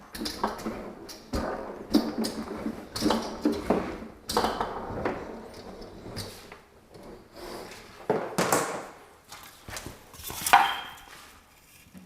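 Objects being handled and set down: irregular knocks and clattering with scraping between them, and one sharper, louder knock about ten and a half seconds in.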